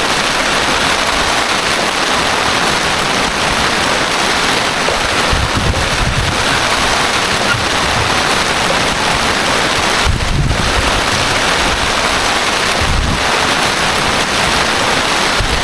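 Heavy rain falling in a steady, loud hiss. A few brief low rumbles break in, about a third of the way in, two-thirds in and near the end.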